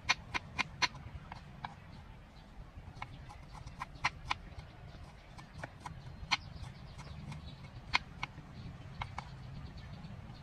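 A series of sharp clicks, quick and regular at first, then irregular and sparser, over a steady low hum.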